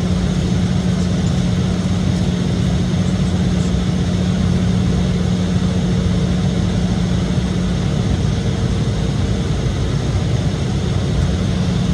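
Embraer E-175's General Electric CF34-8E turbofan engines running steadily, heard inside the passenger cabin as a constant drone with a low steady hum.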